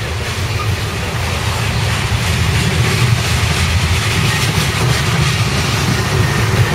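Coal cars of a CSX freight train rolling past: a steady rumble of steel wheels on the rails with faint clicks, growing slightly louder.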